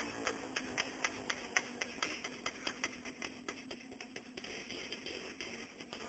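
Minsk motorcycle's single-cylinder two-stroke engine running, heard as a rapid, slightly uneven popping of about five or six pops a second that grows a little fainter.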